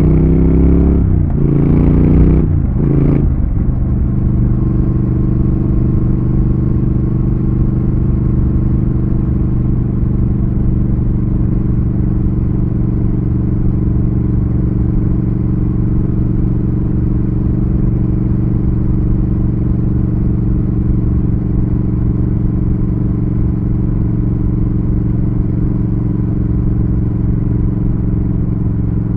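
Triumph Thruxton RS's 1200 cc parallel-twin engine on the road, accelerating through three quick upshifts in the first few seconds, its revs climbing and dropping at each shift, then running at steady revs while cruising.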